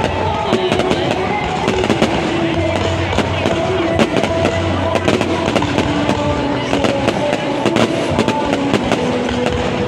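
Fireworks going off in many quick bangs and crackles throughout, with music and its steady bass playing underneath.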